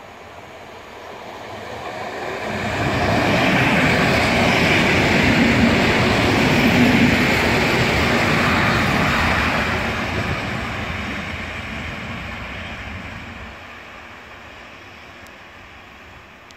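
An EN57 electric multiple unit passes at speed with a rumble of wheels on rail. It swells as the train approaches, is loudest for several seconds as the cars go by, then fades away as it recedes.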